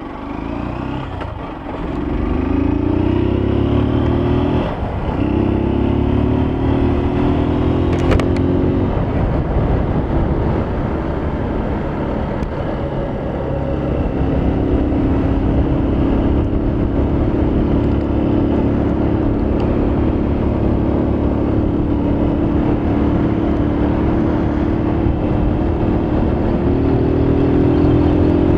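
Honda CG Fan 160's single-cylinder engine pulling the bike under way, its pitch climbing through the gears with a drop at a shift about five seconds in, then holding a steady cruise from about halfway and rising again near the end. The air-filter intake elbow has been taken off.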